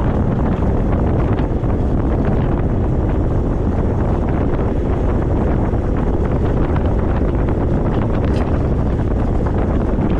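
Steady wind buffeting the camera microphone while riding an e-bike, a dense rumbling rush that stays level throughout.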